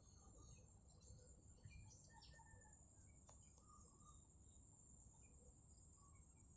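Faint outdoor ambience: a steady high-pitched insect drone with scattered short bird chirps over a low background rumble.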